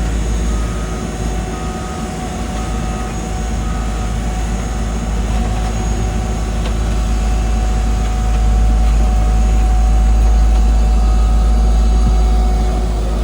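Diesel engines of heavy paving machinery running with a deep, steady rumble that grows louder about two-thirds of the way through. A reversing alarm beeps repeatedly for the first few seconds.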